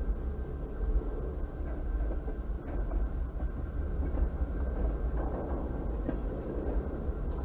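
Freight cars rolling slowly past on the track: a steady low rumble of steel wheels on rail with scattered faint clicks, heard muffled from inside a vehicle.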